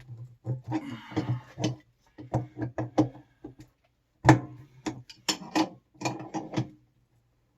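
Irregular clicks, clacks and knocks of tools and parts being handled and set down, in several clusters with a short gap in the middle.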